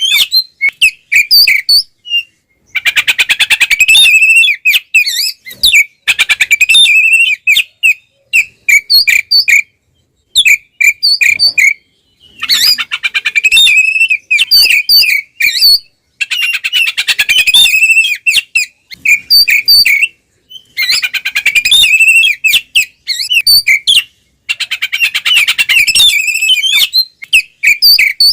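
Oriental magpie-robin (kacer) giving its loud 'ngeplong' fighting song: bursts of rapid, varied whistles and harsh notes, a few seconds each, broken by short pauses. This is a territorial, aggressive song, used as a lure to provoke other male magpie-robins.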